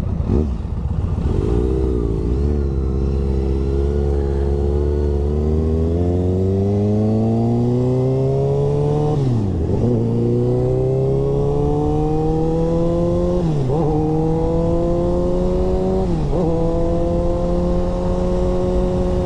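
2015 Kawasaki ZX-6R's inline-four engine pulling hard, its pitch climbing steadily, then dropping and recovering at three quick gear changes, about halfway through and twice more near the end.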